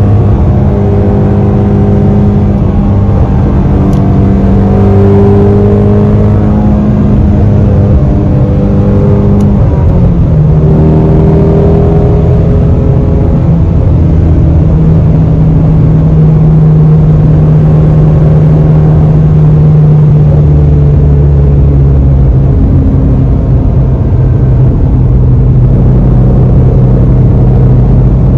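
2020 Shelby GT350's 5.2-litre flat-plane-crank V8 running loud and steady at cruise. About ten seconds in, the engine note briefly dips and settles at a lower pitch, then eases a little lower again near the end.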